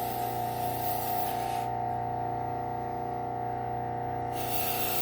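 Low-speed belt sander running with a steady hum and whine, and the hiss of a serrated knife's steel edge being ground across the belt. The grinding hiss stops a little under two seconds in and starts again after about four seconds.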